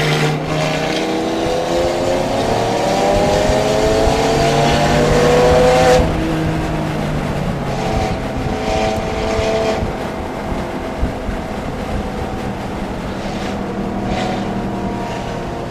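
Porsche engine pulling hard, its pitch climbing steadily for about six seconds, then dropping off abruptly as the throttle is lifted. It then runs at lower revs that rise and fall.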